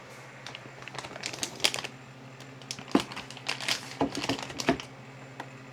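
Plastic crinkling and light irregular clicks from handling a UV printer cleaning cartridge and its packaging.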